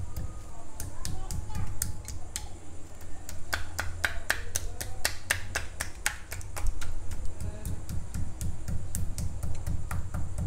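Wooden chapati rolling pin lightly beating raw skin-on chicken leg pieces: quick, irregular taps, several a second, to tenderize the meat without breaking the bones. A steady low hum runs underneath.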